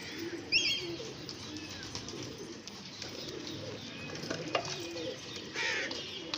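Domestic pigeons cooing, low and wavering, with a loud sharp high chirp about half a second in and a short scratchy burst near the end.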